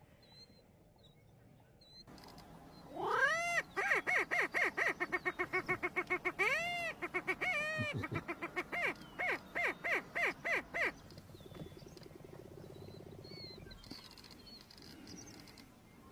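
Greater prairie chicken calling: a few whooping notes that rise and fall, then a fast run of cackling pulses, about seven a second, that stops abruptly. A fainter pulsing call follows.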